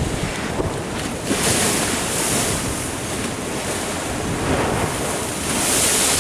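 Ocean surf washing in, with two louder surges, one about a second and a half in and one near the end. Wind rumbles on the microphone throughout.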